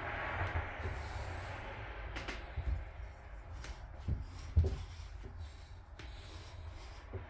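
Hands working outboard-motor parts into place: a scraping, rubbing sound at first, then a few knocks, the loudest a single sharp thump about halfway through.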